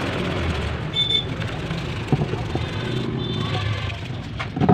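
Road traffic running steadily in the background, with a short high tone about a second in and a few sharp knocks near the end.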